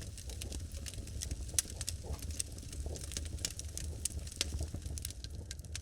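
Log fire crackling: irregular sharp pops and snaps of burning wood over a steady low rumble from the flames.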